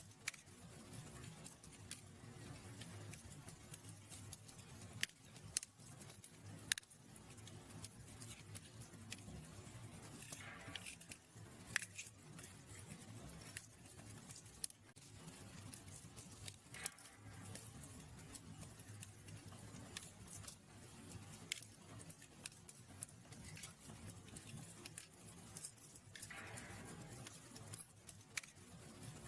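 Wood fire crackling, with scattered sharp pops and snaps over a low steady rumble of burning. Twice, a short hiss falls in pitch.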